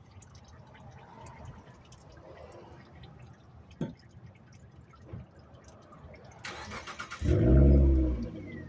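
A car engine is cranked and starts near the end, running loud for about a second and then dropping to a steady low idle.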